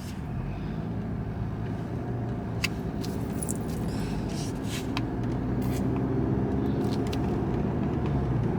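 A car engine running steadily, its hum growing a little louder from about five seconds in, with a few faint clicks.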